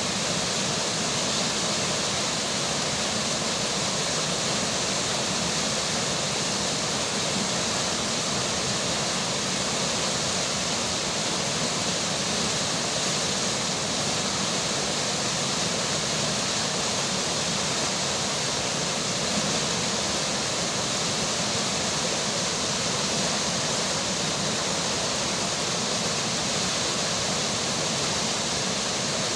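A river flowing under rainfall: a steady, even rushing of water with no breaks.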